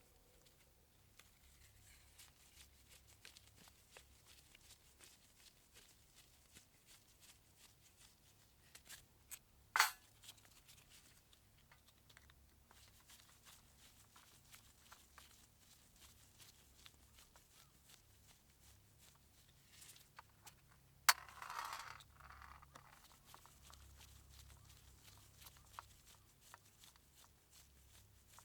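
Quiet workshop handling noises: scattered small clicks and rustles of parts and tools being handled, with a sharp click about ten seconds in and a louder click followed by a brief scraping rustle about twenty-one seconds in.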